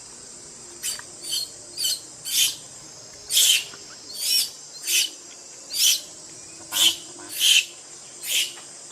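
An animal giving short, sharp, high-pitched calls over and over, about two a second, over a steady high drone of insects.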